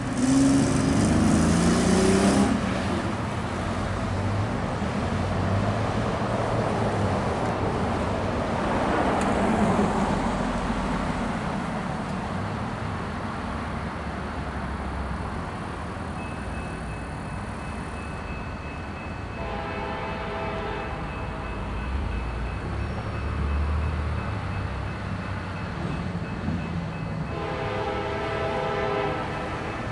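BNSF diesel locomotives hauling a loaded coal train, running with a steady low rumble. The air horn sounds loudly at the start, then twice more, about twenty seconds in and again near the end.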